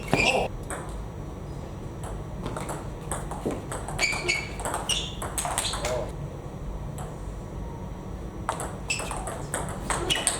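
Table tennis ball knocking on rackets and the table in quick runs of hits, with pauses of a second or two between runs.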